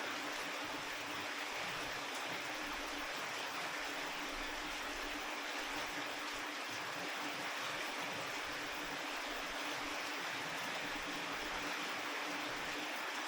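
Steady rain falling, an even hiss with no breaks, over a faint steady low hum.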